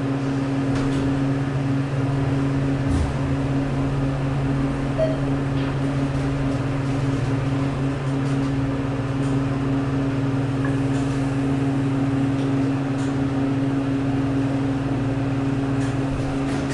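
Elevator machine-room motor running with a steady, even hum and a constant low drone, from the recently modernized ThyssenKrupp drive equipment for two passenger elevators.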